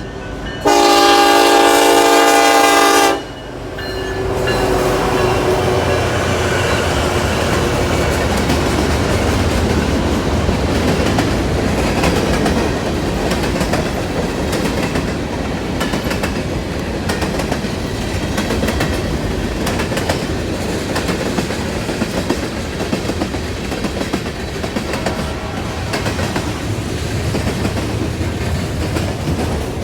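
Norfolk Southern EMD SD70-series diesel freight locomotive sounding one multi-note horn blast of about two and a half seconds. Then the locomotive and its freight cars run past, wheels clicking steadily over the rail joints.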